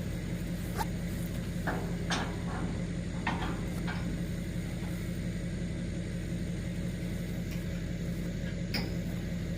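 A pickup's engine idling with a steady low hum, over a handful of sharp metal clanks and knocks from heavy hitch parts being handled and set down.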